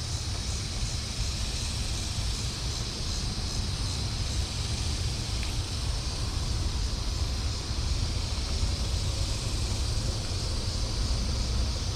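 Steady outdoor noise: wind buffeting the microphone as a low, fluttering rumble, with a steady high hiss over it.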